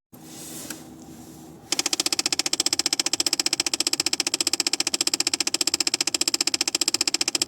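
Ford Fiesta Mk7 heater flap actuator clicking rapidly behind the dashboard, starting about two seconds in, at about ten even clicks a second. The clicking is the sign of a faulty heater flap actuator.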